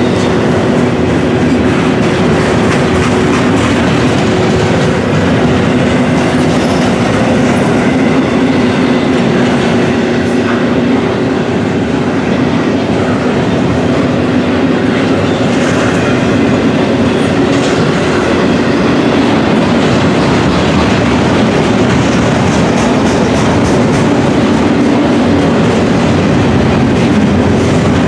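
Double-stack intermodal container cars rolling past close by: a loud, steady rumble of steel wheels on rail with clickety-clack over the rail joints and a steady droning tone underneath.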